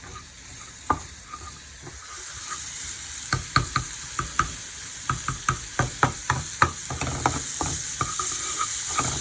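Salmon and onions frying in butter in a pan, sizzling, while a utensil stirs and knocks against the pan. The sizzle gets louder about two seconds in, and from about three seconds in the utensil clicks against the pan two to three times a second.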